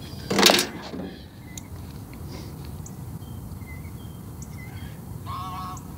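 Small birds chirping faintly. A brief loud rushing sound comes about half a second in, and a short pitched animal call comes near the end.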